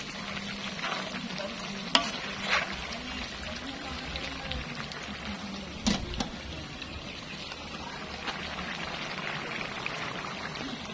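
Food frying in a pan, a steady sizzle with a few sharp clicks, about two and six seconds in.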